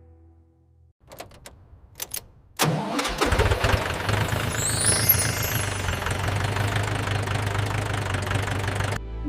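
Tractor engine starting just after its wiring has been repaired: a few clicks, then the engine catches about two and a half seconds in and runs steadily with a low hum, cutting off suddenly near the end.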